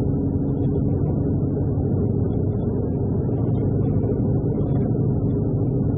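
Truck engine running and road noise heard inside the cab while driving: a steady low rumble.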